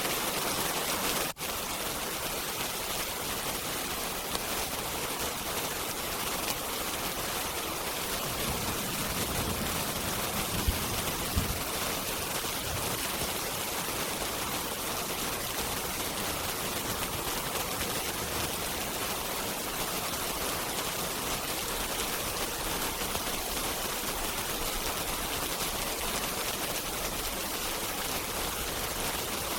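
Steady rain, a dense even hiss. A brief dip comes just over a second in, and two short sharp pops over a low rumble come about ten to eleven seconds in.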